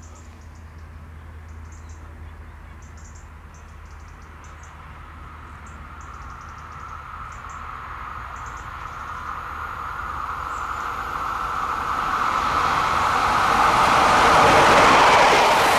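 An Alstom Régiolis regional train approaching on the rails, its running noise growing steadily louder as it nears and reaching its loudest near the end. Faint short high chirps sound over it in the first half.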